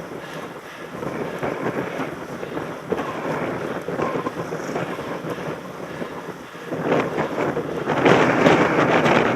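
Wind buffeting a helmet-mounted camera's microphone on a moving mountain bike, mixed with the crackle and rattle of the bike over rough ground. It grows louder for the last couple of seconds.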